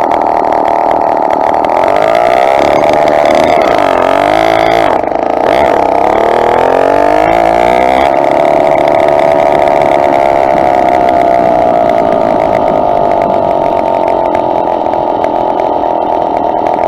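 Two-stroke motorized bicycle engine running under way, its pitch dipping and rising with the throttle through the first half, with a brief drop near the middle, then holding steady at cruising speed.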